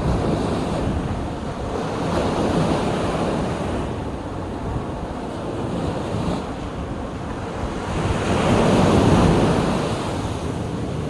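Sea waves washing onto the shore in slow surges, one swelling loudest near the end, with wind buffeting the microphone.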